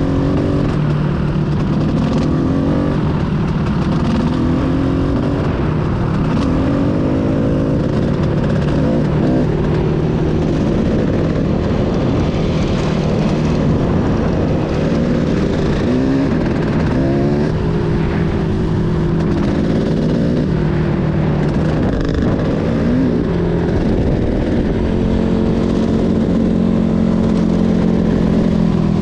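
Enduro motorcycle engine running, revved up and down again and again over a steady low engine drone.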